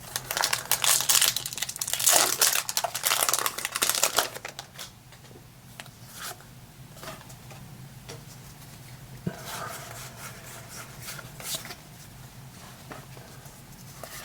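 Foil booster-pack wrapper crinkling and tearing open, loud for the first four seconds or so. Then quieter rustling and light clicks of cards and wrapper being handled, with a brief louder crinkle about ten seconds in.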